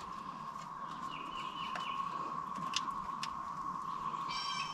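Birds chirping in short calls over a steady high-pitched tone, with a few light clicks.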